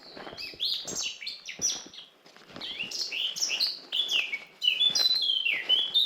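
Several songbirds chirping and singing, a busy run of quick high notes that mostly slide down in pitch and grow louder and denser about two-thirds of the way through. A few soft footsteps on a forest path fall under the birdsong.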